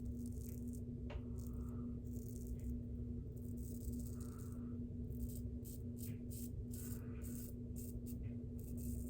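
Shavette razor with a half DE blade scraping through lathered stubble in a run of short strokes, over a steady low hum from laundry machines running.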